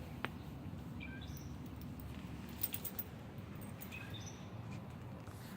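A few short, faint bird chirps over a steady low background hum, with a couple of light clicks around the middle.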